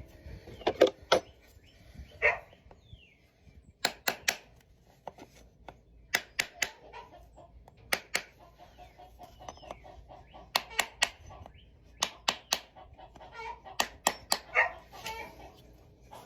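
Hoof nippers cutting through a horse's hoof wall during a trim: sharp snaps in quick runs of two or three, every couple of seconds.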